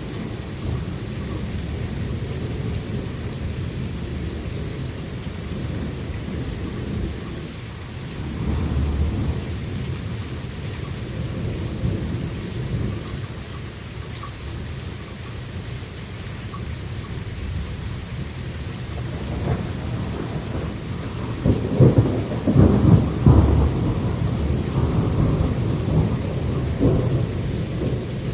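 Thunderstorm: a steady low rumble of thunder over rain, with a louder run of cracking thunder about two-thirds of the way through.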